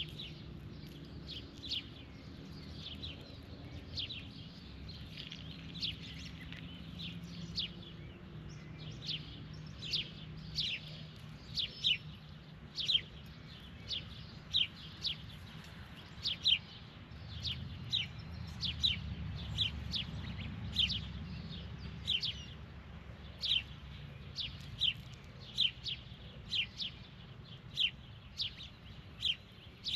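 Birds chirping over and over, short thin high chirps about one or two a second, over a steady low rumble.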